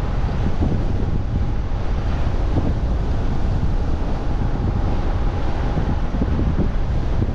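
Wind rushing over the microphone of a camera riding on a moving e-bike: a steady, heavy low rumble that does not let up.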